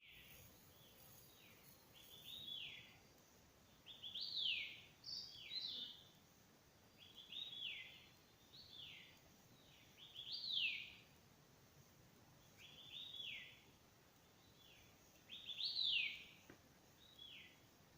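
A songbird singing short phrases of high, quickly falling whistled notes, a phrase every two to three seconds, over a faint steady hiss.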